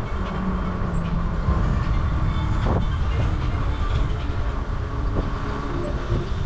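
Wind buffeting the microphone of a moving bike, a steady low rumble with road noise underneath.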